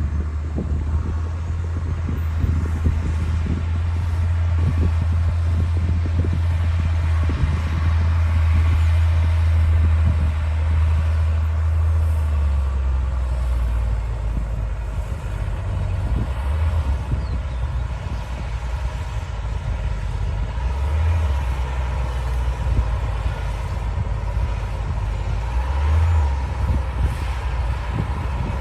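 Diesel engine of a D60 crawler bulldozer running steadily under work, a loud low drone that dips in pitch about twelve seconds in and shifts a few more times after.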